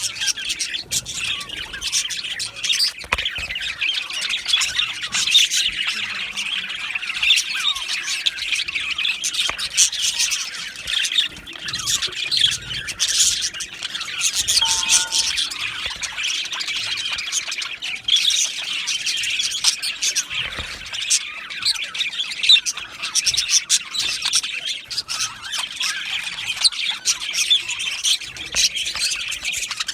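A flock of budgerigars chattering and squawking together, a dense continuous mix of many short chirps and warbles.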